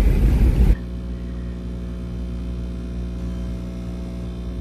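Loud rushing noise of a car driving at speed, with wind buffeting the microphone, cuts off abruptly under a second in. A much quieter steady low hum made of several fixed tones follows.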